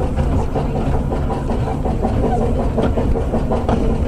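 Narrow-gauge steam train running, heard from on board: a loud, steady rumble and rattle of the wheels on the track and the carriage bodywork.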